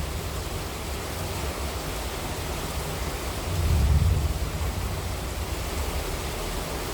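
Heavy monsoon rain falling steadily, with a low rumble swelling and fading about halfway through.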